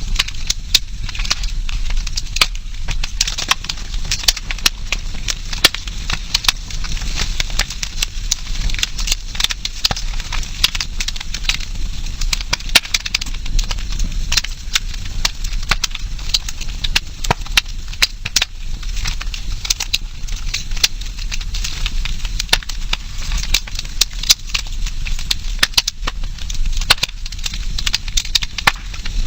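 Wood fire burning, crackling and popping with many sharp, irregular snaps over a steady hiss.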